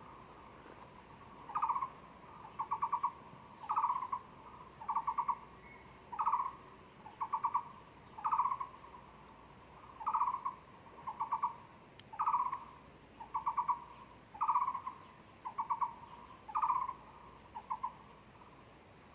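Taiwan barbet calling: a long series of low, hollow hoots, a single note followed by a quick run of three or four notes, repeated about once a second, starting about a second and a half in.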